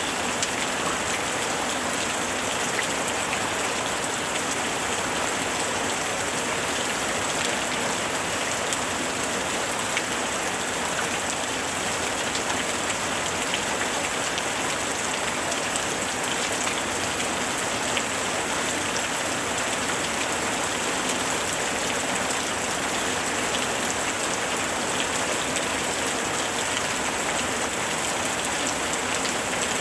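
Steady rain falling on a surface: an even, unbroken hiss with faint scattered drop ticks.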